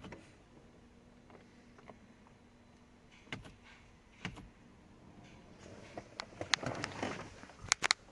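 Faint isolated clicks, then a few seconds of rustling with several sharp clicks near the end.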